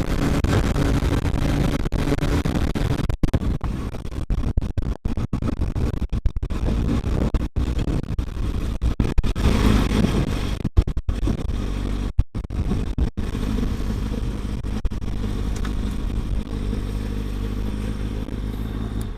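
Kawasaki ZX-6R 636 inline-four engine running under way, with wind rushing over the helmet microphone. The sound cuts out briefly many times, swells a little about halfway through, and settles to a steadier engine note near the end.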